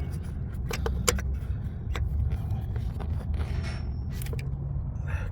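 Hand tools clinking and scraping on metal, a socket and extension at work on the spark plugs of a V6 engine: a few sharp clicks and a short scrape over a steady low rumble.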